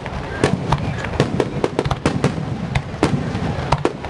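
Fireworks display: a rapid, irregular string of sharp cracks and bangs, several a second, over a continuous rumble of shell bursts.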